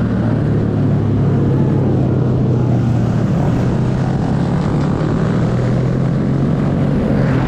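Mini bike engine running at a steady speed, one even, unchanging pitch throughout.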